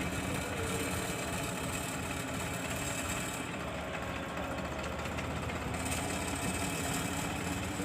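Sonalika tractor's diesel engine running steadily at idle.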